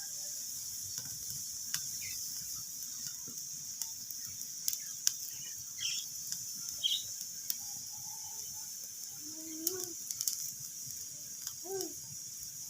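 Wood fire crackling in a fireplace: a steady hiss with scattered sharp pops and snaps. A few short pitched calls sound faintly behind it near the end.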